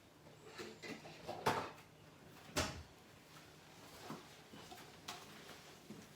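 Cups and painting supplies being handled and set down on a work table: a handful of light knocks and clatters, the two loudest about one and a half and two and a half seconds in.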